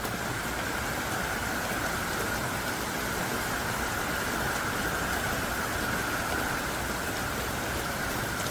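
Heavy, driving rain falling steadily as an even, unbroken hiss.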